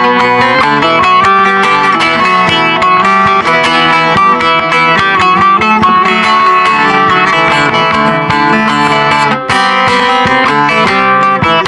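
Bağlama (Turkish long-necked saz) playing a folk melody instrumentally in a quick, unbroken run of plucked and strummed notes.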